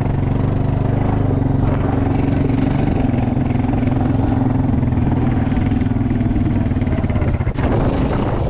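A vehicle engine idling steadily. About a second before the end, wind noise rushes in over it.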